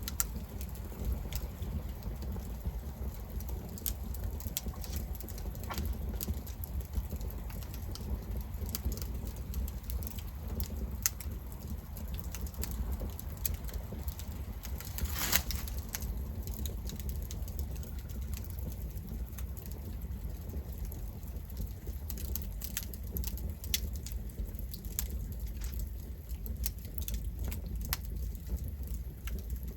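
Campfire burning, with irregular sharp crackles and pops over a steady low rumble; one louder pop about halfway through.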